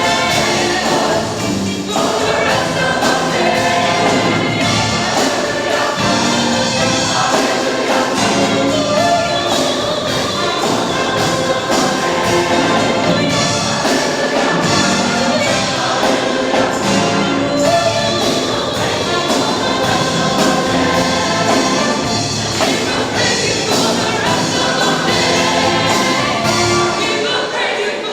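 A choir singing a gospel-style song with instrumental accompaniment, continuous throughout.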